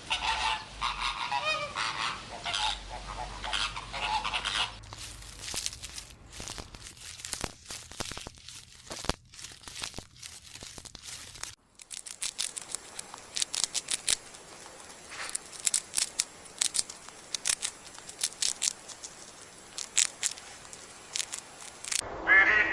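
A flock of flamingos honking for the first few seconds. After that comes a long stretch of irregular clicks and crackles with no calls.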